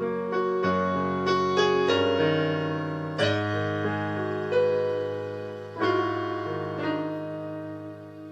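Slow instrumental keyboard music: sustained piano-like chords, each struck and left to ring and fade before the next.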